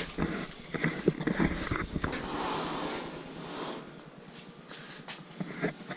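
Handling noises at a clothes dryer as it is moved and its door worked: knocks and clicks in the first two seconds, a stretch of rustling, then a few more clicks near the end.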